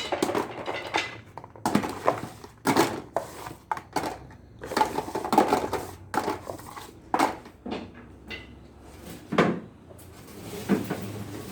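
Hard bars of homemade soap knocking and clattering together as they are handled, a string of irregular knocks.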